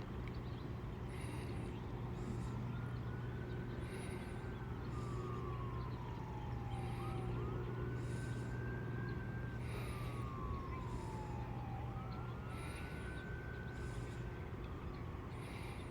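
Distant emergency vehicle siren wailing, its pitch rising, holding, then sliding slowly down, three times over. A bird repeats a short high chirp about every second and a half over a steady low hum.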